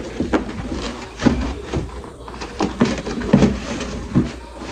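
Irregular knocks and clicks of electric-fan parts being handled and fitted together during assembly.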